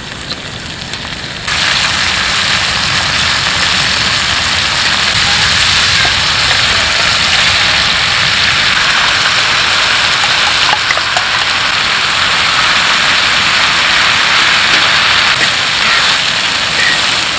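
Sundae, onion and green onion frying on a hot round griddle pan over a portable gas burner: a loud, steady sizzle that starts abruptly about a second and a half in. A few light clicks of metal tongs on the pan come through it.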